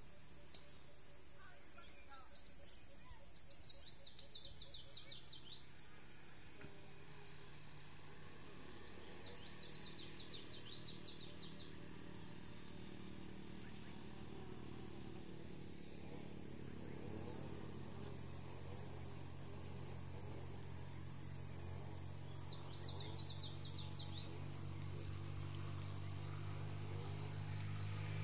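Wild birds singing: short, high rising chirps repeated throughout, and three bursts of rapid trilled notes. Underneath is a steady low hum that grows louder near the end.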